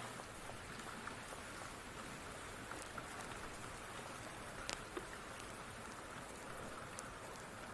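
Steady rain falling, with scattered sharp crackles and pops from a wood fire in a fireplace, a couple of louder pops a little under five seconds in.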